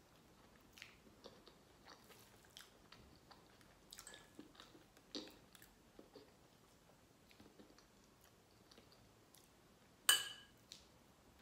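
Soft chewing and biting of a mouthful of instant noodles mixed with fries and pilchards, with scattered small wet mouth clicks. A single sharper click about ten seconds in.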